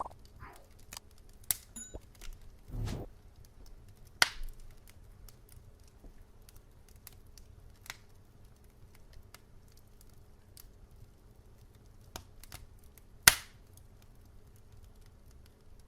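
Burning wood fire crackling: irregular sharp pops and snaps over a faint low background. A loud pop comes about four seconds in, a duller low thud just before it, and the loudest pop comes near the end.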